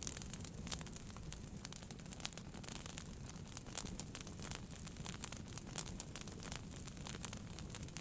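Wood fire burning in a fireplace, crackling with many small irregular pops over a low steady rumble of the flames.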